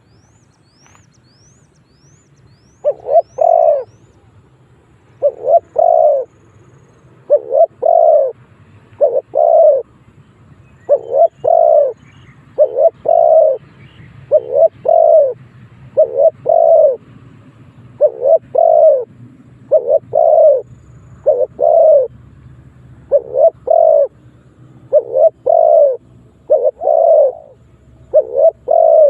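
Spotted dove cooing in repeated phrases of two or three low coos, a phrase every second or two, beginning about three seconds in. This is the dove's territorial call, used to lure wild doves in to fight. Faint high chirps of a small bird come near the start.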